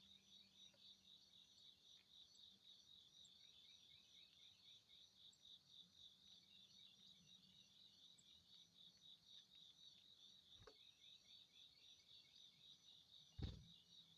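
Faint insects chirping in a steady, evenly pulsed rhythm, with a low hum under them. A dull thump near the end is the loudest sound, and a light click comes shortly before it.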